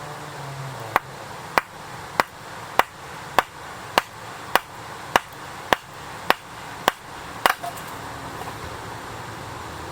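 About a dozen sharp strikes of a hand tool, evenly spaced a little under twice a second, the last one doubled, typical of chopping or splitting wood at camp.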